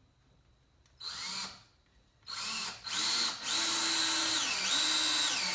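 Electric drill run in two short trigger bursts, then held on steadily, its motor pitch dropping and climbing back twice as the speed changes under load.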